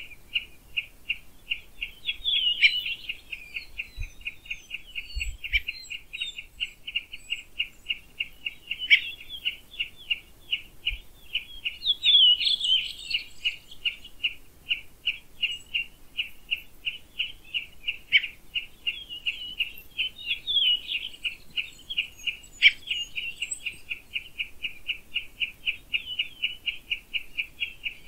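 Woodland birds: a steady run of short, evenly spaced chirps, about three a second, with other birds singing louder, varied phrases over it now and then.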